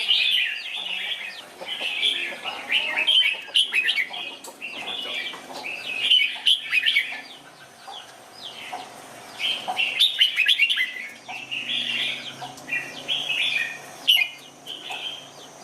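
Red-whiskered bulbul singing: bright, quick warbled phrases that come one after another in clusters, with short pauses between them.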